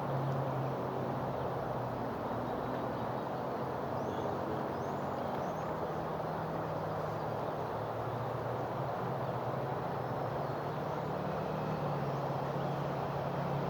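A steady low motor hum over a constant rushing noise, with a few faint high chirps about four to six seconds in.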